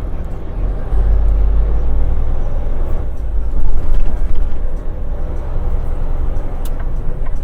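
Heavy truck driving, a steady low engine and road rumble that swells louder for about a second near the middle.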